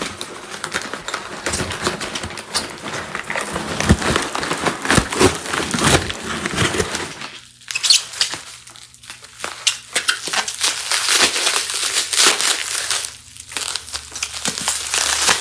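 Packaging of a cardboard shipping box being pulled open and handled: irregular crinkling and crackling with scattered sharp knocks, easing off for a moment about halfway through.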